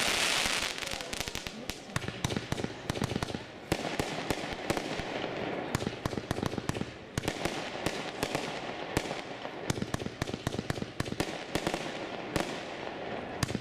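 "Galaxy of Fire" consumer firework battery firing: a rapid, dense run of sharp crackling pops from its bursting stars. A louder hissing rush comes in the first second.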